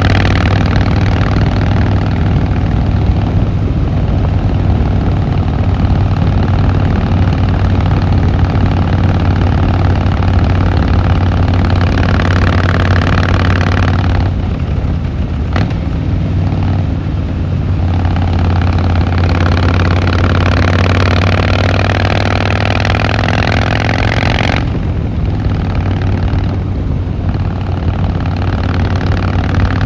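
Harley-Davidson Fat Boy Lo's V-twin engine and exhaust running while the bike is ridden. The note rises as it accelerates in the middle, and it eases off twice as the throttle is rolled back.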